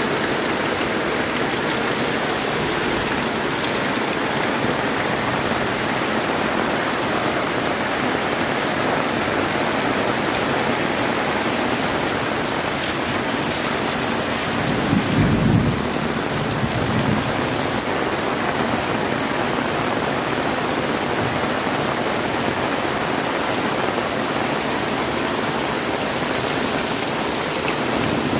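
Very heavy tropical rain pouring down in a steady hiss. Just past halfway there is a brief low rumble of thunder, with a fainter one a couple of seconds later.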